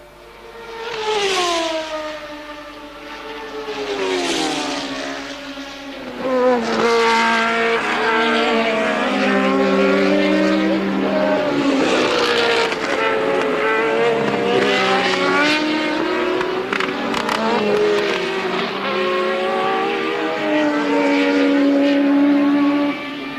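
1983 Formula One cars at racing speed: two cars pass one after another, each engine note falling in pitch as it goes by, then from about six seconds in several cars run together, their engine notes rising and falling through gear changes.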